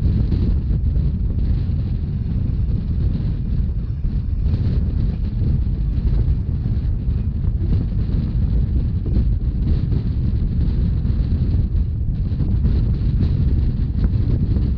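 Steady wind buffeting the microphone over the low rumble of a Rhaetian Railway narrow-gauge train running at speed.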